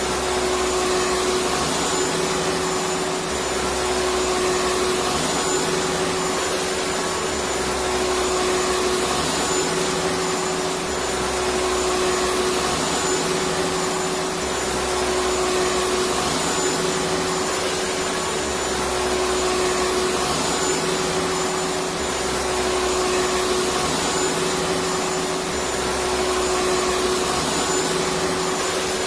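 Electric vacuum cleaner running steadily: a continuous rushing noise with a constant hum, and a slight low swell every three to four seconds.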